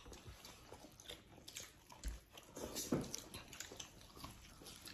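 Quiet chewing and biting of fried dough sticks (youtiao) at a meal table, with scattered small clicks of utensils.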